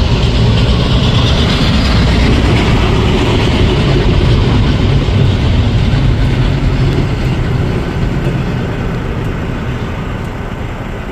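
Double-stack intermodal container cars rolling past on the rails: steady wheel-on-rail noise that fades over the last few seconds as the end of the train goes by.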